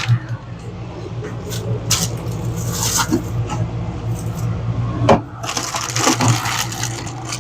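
Food containers and packaging being handled: scattered clinks, knocks and rustles over a steady low hum.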